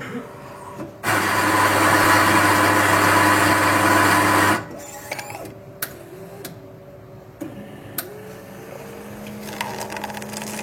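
A small electric machine runs loudly for about three and a half seconds and stops, followed by a few clicks, and then a second, quieter steady hum starts near the end.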